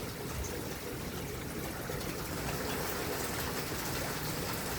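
Rain falling steadily in a thunderstorm: an even hiss of water with no clear thunderclap.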